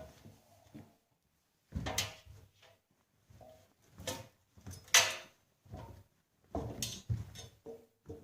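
A series of clunks, knocks and clicks from handling an AEG Öko-Lavamat washing machine. The loudest is a sharp click about five seconds in, and a cluster of knocks follows near the end.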